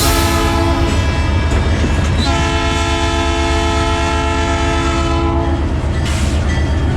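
Train horn sounding a short blast, then a longer blast of about three seconds, over the steady low rumble of the train running on the rails.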